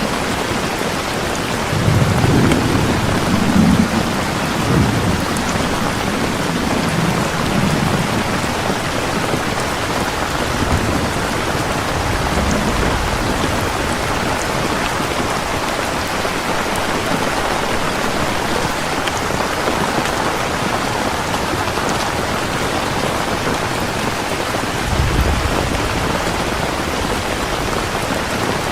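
Heavy rain falling steadily, a dense even hiss, with rolls of thunder rumbling low in the first several seconds and again briefly near the end.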